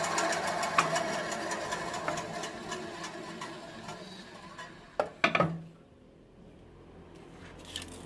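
Wipro JDD 200 mini band saw running with a fast, even rattle that fades away over the first four seconds or so. Two sharp knocks come about five seconds in, followed by quiet.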